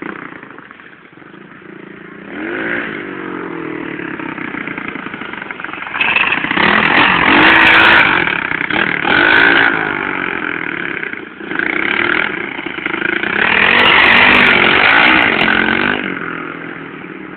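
Pit bike engine revving and riding, its pitch rising and falling with the throttle. It is quieter at first and loudest in two long passes, one in the middle and one near the end.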